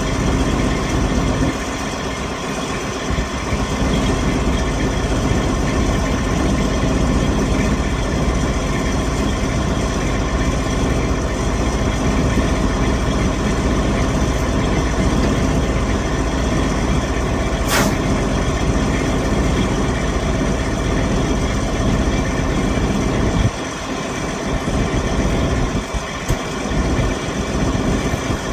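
Detroit Diesel Series 60 14.0-litre inline-six diesel in a 2007 Freightliner Columbia idling steadily while still cold in about −20°C, shortly after a cold start. A single sharp click is heard partway through.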